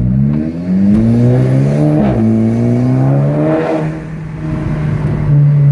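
VW Mk5 GTI's turbocharged four-cylinder with a KO4 turbo accelerating hard, heard from inside the cabin. The revs climb, drop at an upshift about two seconds in, climb again, then ease off around four seconds in into a steady cruise. It pulls smooth, with no misfire, on new Audi R8 coil packs and NGK laser plugs.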